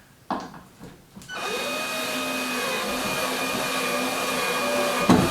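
Power drill starting up with a brief rising whine, then running steadily for about four and a half seconds while the shelf is fixed to the wall stud. A short knock comes just before it and a sharp clunk near the end.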